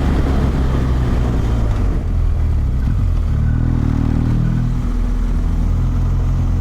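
Motorcycle engine running under way at road speed, its pitch climbing a little as it pulls harder about two and a half seconds in.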